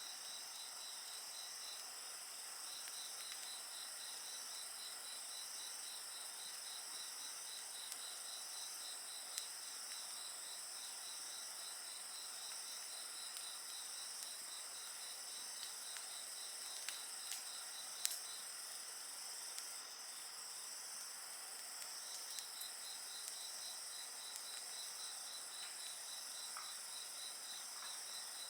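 Insects calling at night: a steady high-pitched chorus with one insect chirping in even pulses that pause for a few seconds midway. A wood fire crackles now and then, with one sharper pop about two-thirds of the way through.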